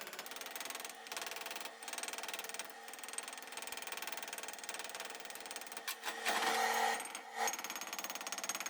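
Fast, even buzzing chatter from the weld repair at the spark plug well of an aluminium VK50VE cylinder head. It grows louder for about a second near the end.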